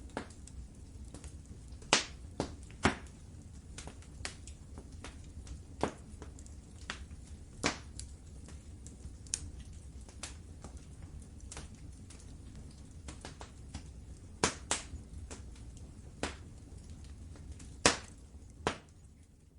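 Wood fire crackling in a fireplace: sharp, irregular pops and snaps over a low steady rumble of the flames, fading out near the end.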